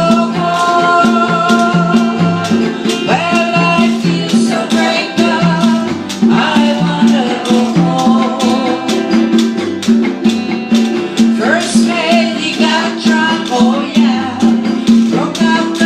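A small band playing a steady Latin-style rhythm: congas and a scraped washboard keep the beat under a sung melody, with a repeating bass-line pattern.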